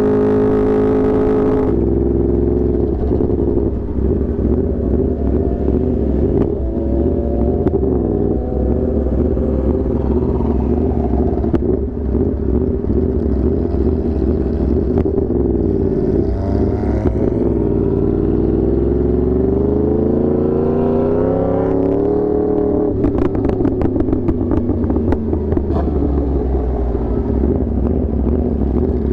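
Yamaha R1 inline-four sportbike engine riding under load, its pitch rising and falling repeatedly as it revs up and eases off. About two-thirds of the way through, a run of rapid crackles comes from the exhaust.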